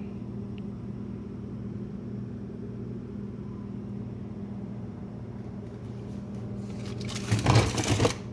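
Steady hum of a running kitchen appliance with a low, even drone. Near the end comes a louder noisy burst lasting about a second.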